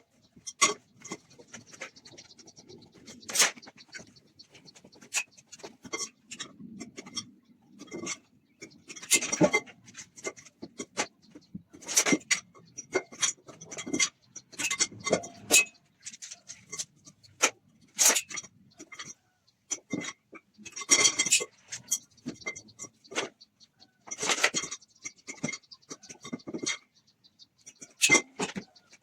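Workshop handling noises: irregular clicks, knocks and clatter, with some scraping in between, as parts and tools for a workbench are moved and worked by hand.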